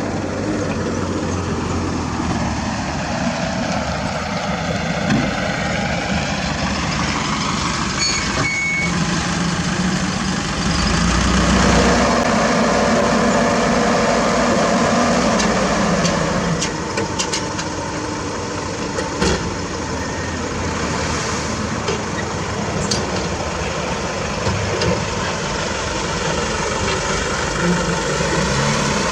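Heavy diesel engines of dump trucks and earthmoving machinery running, the engine speed sweeping down and back up in the first few seconds and a louder stretch of higher revving in the middle. A few sharp knocks break through in the second half.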